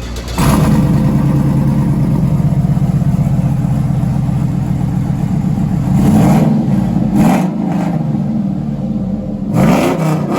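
Car engine fitted with aftermarket headers and a full Corsa exhaust, idling steadily and then revved in short blips, three times in the second half.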